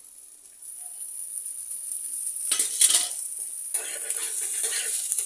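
A freshly flipped dosa frying on a hot tawa: a steady sizzle that grows louder about half a second in as oil goes into the pan. From about two and a half seconds in, louder crackling bursts with the metal spatula scraping and pressing against the pan.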